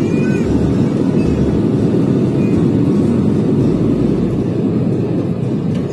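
Steady, loud low rumble of a passenger airliner.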